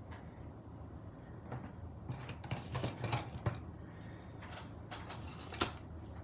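Light clicks and taps of paper craft pieces being handled and set down on a work table, several in quick succession about two to three and a half seconds in and one sharper tap near the end, over a steady low hum.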